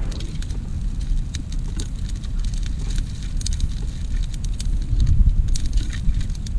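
Campfire burning, with frequent small sharp pops and snaps over a steady low rumble of wind on the microphone.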